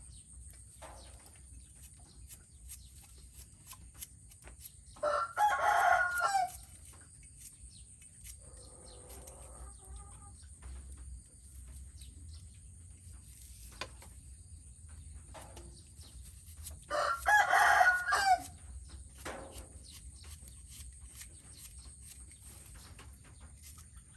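A rooster crows twice, about five seconds in and again about twelve seconds later, each crow lasting about a second and a half, with a fainter call between them. A steady high-pitched whine runs underneath.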